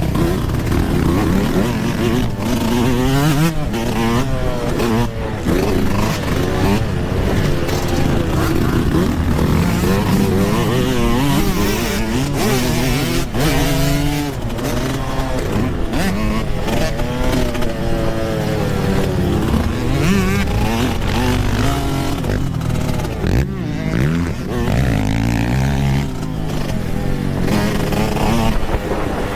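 Yamaha YZ125 two-stroke dirt bike engine being ridden hard, its pitch rising and falling over and over as the throttle is opened and chopped, over a steady rush of wind noise.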